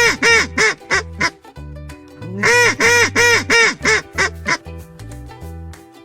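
Domestic waterfowl honking in two quick series of short calls, each call rising and falling in pitch. Background music with a steady bass line plays underneath.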